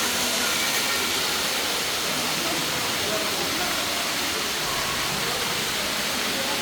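Steady rushing noise of water, with faint voices underneath.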